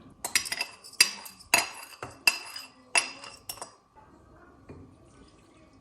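Hard kitchenware clinking: a quick run of about eight sharp, ringing clinks over three and a half seconds, then it stops.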